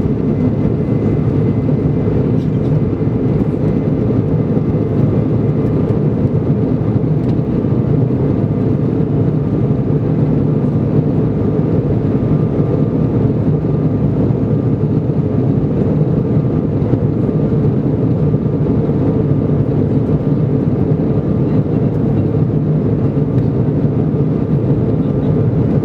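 Steady cabin noise of an Embraer 170 airliner, its General Electric CF34 turbofan engines running, with a deep rumble and faint high whine tones, heard from inside the passenger cabin.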